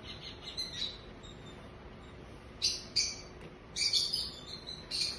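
Bird chirps, with several short harsh bursts high in pitch about two and a half, three, four and five seconds in.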